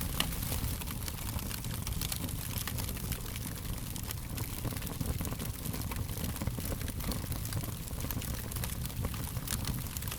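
Fire crackling steadily: frequent small pops and snaps over a low, even rumble of burning.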